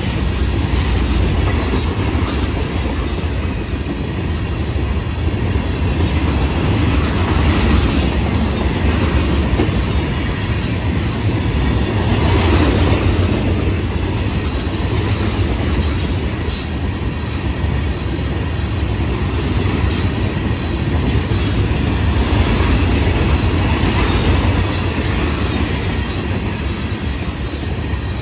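Freight cars of a long train rolling past at speed: steady loud rumble of wheels on the rails, with clicking and brief high-pitched wheel squeals here and there.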